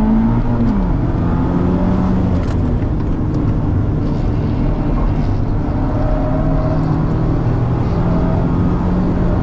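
Cars running at speed on a race track: engine and exhaust under load, with the BMW E92 M3's V8 exhaust note being followed. The engine pitch drops quickly just under a second in, then holds fairly steady.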